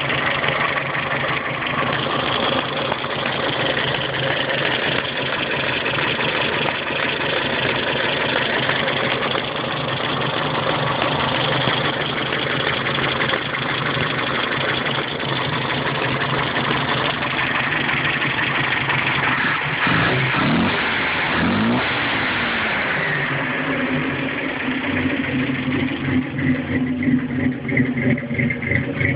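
1962 Datsun L320 pickup's four-cylinder engine running steadily, with a few quick revs up and down about twenty seconds in, then settling to an even idle.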